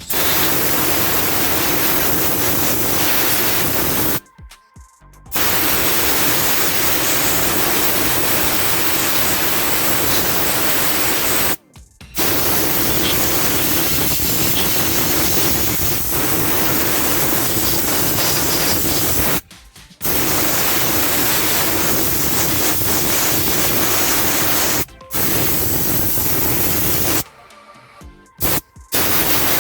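Spray gun blasting diesel onto driveshaft parts to clean off grease: a loud, steady hiss, let off and squeezed again several times for about a second each.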